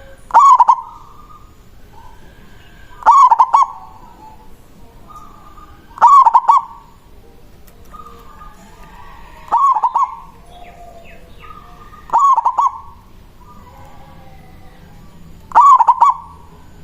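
Zebra dove (perkutut) singing its cooing song: six loud short phrases about three seconds apart, each lasting about half a second, with fainter bird calls in between.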